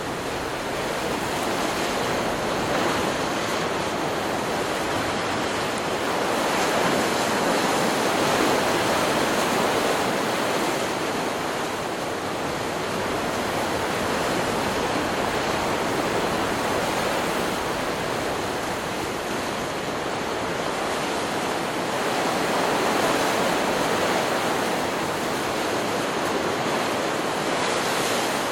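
Stock recording of ocean surf: waves breaking and washing ashore in a continuous rush that swells twice.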